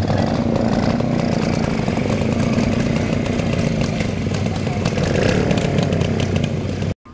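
Vintage motorcycle engine running with a loud, buzzing exhaust, cutting off suddenly near the end.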